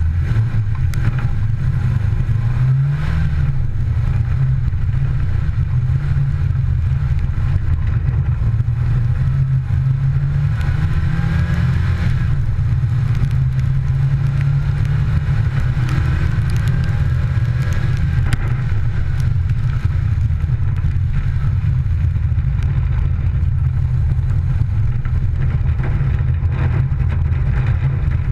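Rally car's engine driven hard, its note rising and falling with the revs, heard from a camera mounted on the outside of the car.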